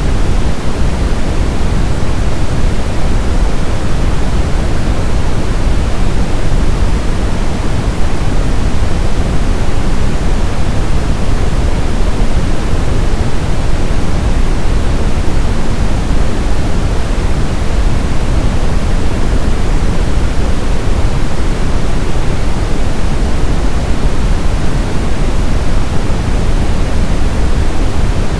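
Steady synthetic brown noise: an even, deep hiss weighted toward the low end, unchanging throughout.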